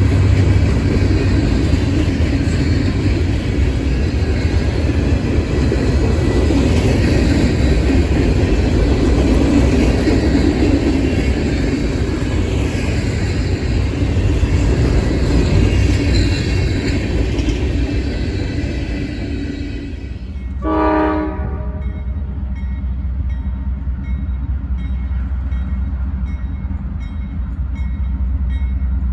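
A train rumbling past close by for about twenty seconds. A short horn blast comes about twenty-one seconds in, followed by a quieter, steady low rumble.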